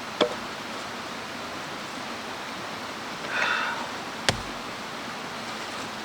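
Steady rushing of a mountain stream, with two sharp clicks, the second louder and with a low thump, and a brief rustle between them.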